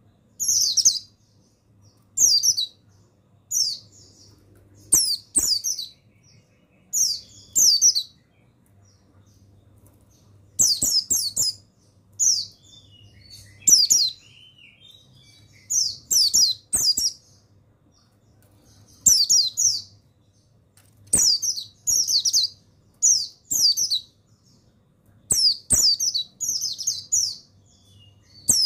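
White-eye (pleci buxtoni) singing in short, very high, rapid twittering phrases, each under a second long, repeated every second or two and sometimes in quick pairs.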